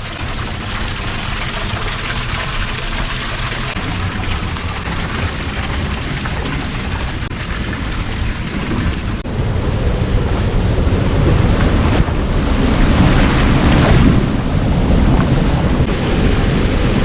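Steady, loud rush of water pouring over Dolan Falls, a waterfall on the Devil's River. It turns abruptly louder about nine seconds in.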